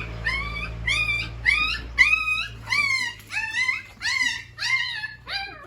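A young puppy, about two weeks old with its eyes not yet open, crying in a run of high, rising-then-falling whimpers, about two a second.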